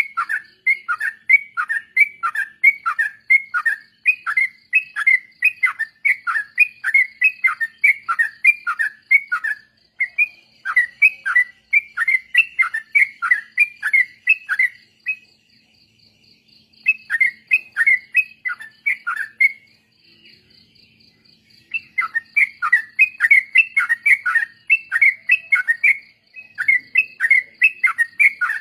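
Trucuk (yellow-vented bulbuls) singing in a rapid run of short falling notes, about two a second, with two brief pauses in the middle, over a faint steady high pulsing trill.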